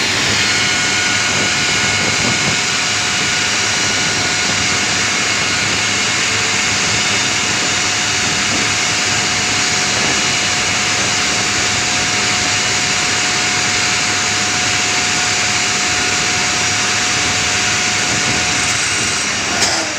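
Boeing 737-900's jet engine running steadily: a loud jet rush with several high, steady whining tones over it. One of the tones drops out near the end, and a short click follows.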